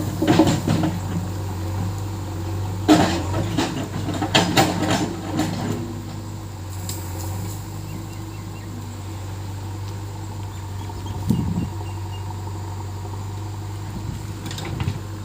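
Heavy diesel engine running steadily with a low drone. Several sharp clanks sound over it: at the start, a cluster from about three to five seconds in, one near eleven seconds and one near the end.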